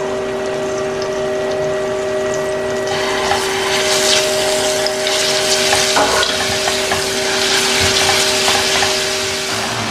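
Seasoning paste frying in hot oil in a pot, a sizzle that starts about three seconds in as it goes in and is stirred with a spatula, the first step of sautéing the beans. Under it runs a steady hum that stops near the end.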